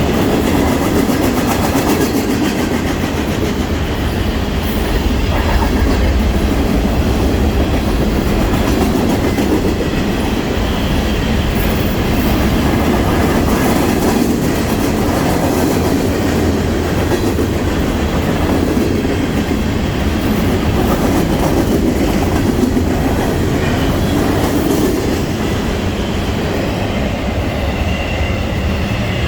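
Freight train cars rolling steadily past on the track, their wheels clacking over rail joints.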